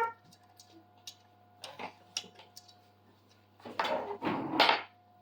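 Small metal hardware and a hand tool clicking and clinking against the CNC frame rails as M5 T-nuts are worked into the slots. One click at the start rings briefly, and about four seconds in there is a longer rattling scrape.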